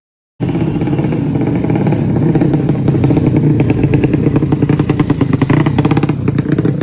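Tuned racing motorcycle engine running loudly, its firing pulses coming as a rapid, even rattle. It cuts in abruptly about half a second in.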